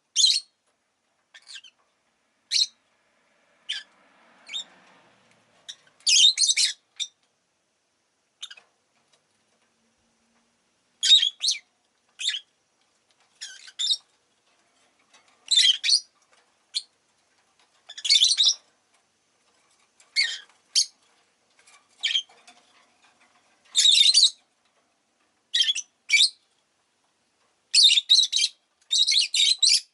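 Rosy-faced lovebirds giving short, shrill chirps, some single and some in quick clusters, with pauses of about a second or two between them.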